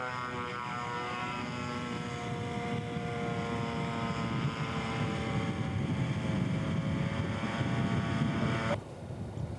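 Engine of a radio-controlled scale model airplane running in flight, a steady buzzing drone whose pitch sinks slightly over the first few seconds and then holds. It cuts in and out abruptly.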